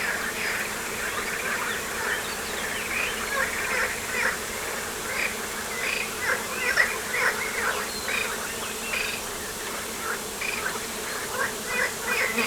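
Insects buzzing steadily, with a busy, irregular scatter of short high chirps over the buzz.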